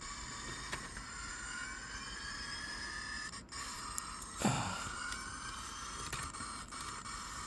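Model train locomotive running along the layout track, its motor giving a steady whine that rises slowly in pitch, with a brief dropout and then a short thump about four and a half seconds in.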